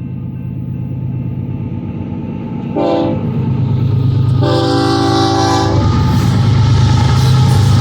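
Union Pacific GE C45AH diesel locomotive approaching and sounding its horn: a short blast about three seconds in, then a longer one of just over a second. Under the horn the locomotive's low engine rumble grows steadily louder.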